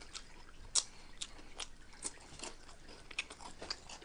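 Close-up chewing and crunching of Flaming Hot Cheetos nachos: irregular crisp crunches, the loudest a bite about a second in.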